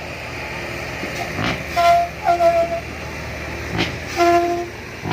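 A heavy vehicle's engine running steadily, with three or four short, high tonal toots over it.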